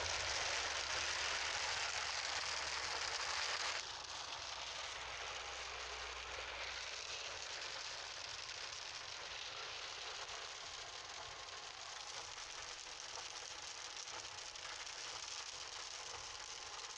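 Steady rain falling, an even hiss that drops to a softer level about four seconds in.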